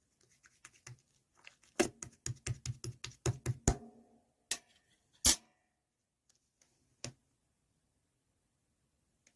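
A quick run of about eight sharp taps or knocks, roughly four a second, then two single louder knocks a few seconds later.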